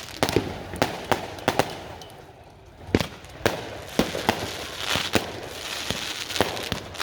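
Fireworks going off: an irregular run of sharp bangs and pops with crackling between them. It eases briefly about two seconds in, then a loud bang comes at about three seconds and the bangs carry on.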